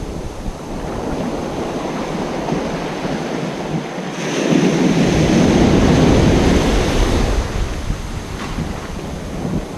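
Ocean surf on a beach: waves breaking and washing up the shore. A bigger wave swells up about four seconds in and fades away over the next three seconds.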